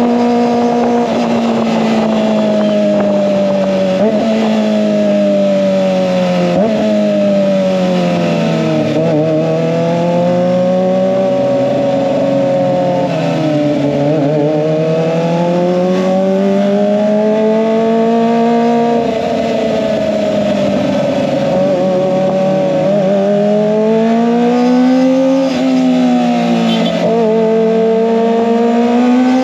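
Kawasaki ZX-25R's 250 cc inline-four engine running through an SC-Project aftermarket exhaust. Its revs rise and fall smoothly over stretches of several seconds, with two quick drops in pitch a few seconds in.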